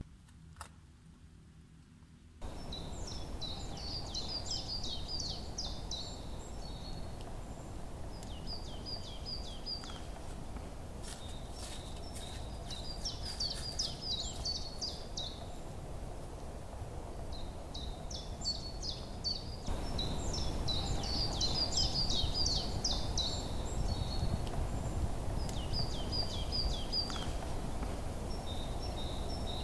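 Woodland ambience: a songbird sings short, fast phrases of falling notes every few seconds over a steady low rumble. The opening two seconds or so are quiet, and the rumble gets louder about 20 seconds in.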